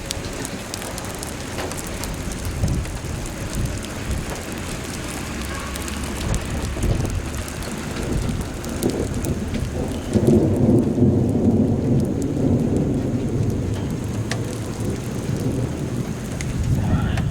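Rain falling and spattering in a thunderstorm, with a long low rumble of thunder that swells about ten seconds in and fades over a few seconds.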